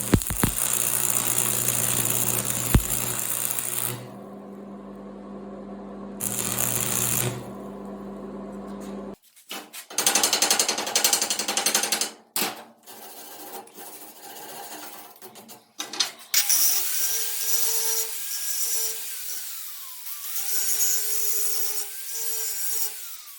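Handheld electric power tool working metal in several cut-together stretches. Near the end its motor whine sags under load and picks back up.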